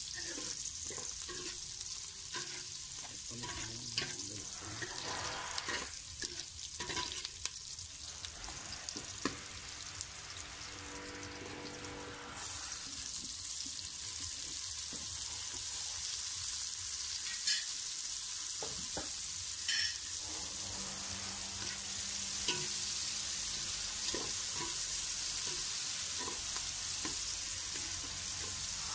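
Chopped onion and garlic sizzling in hot oil in an aluminium pot, with a ladle scraping and clicking against the pot as it stirs. About twelve seconds in the sizzle turns suddenly louder and hissier as diced tomatoes go into the oil, then stirring continues.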